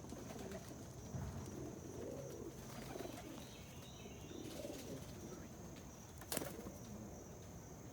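Domestic pigeons cooing softly, several low, rounded calls through the first half, with one sharp click about six seconds in.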